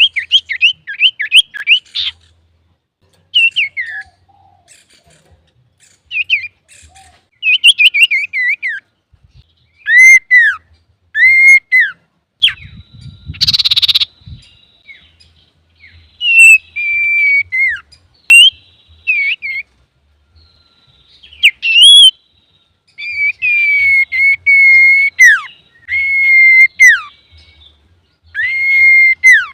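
Male common iora (cipoh) singing: phrases of quick falling chirps and arched whistled notes, then longer held whistles in the second half. A short harsh rasp comes about halfway through.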